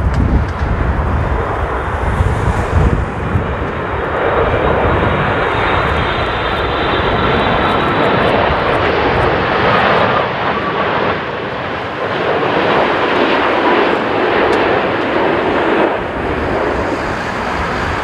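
Jet airliner engines passing close by: a broad, steady engine noise that swells about four seconds in and carries a faint high whine, easing again near the end. In the first few seconds strong wind gusts on the microphone rumble underneath.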